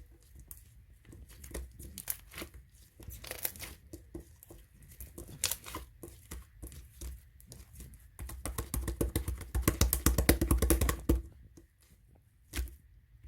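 Close handling noise: crinkling and tearing crackles, scattered at first and then a dense run from about eight to eleven seconds in.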